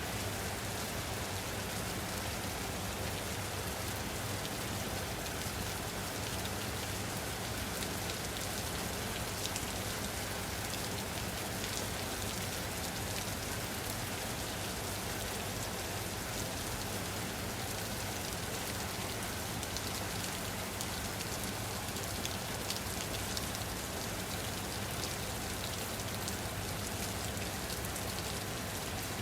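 Steady rain falling on a surface, an even hiss of many small drops with no change in strength.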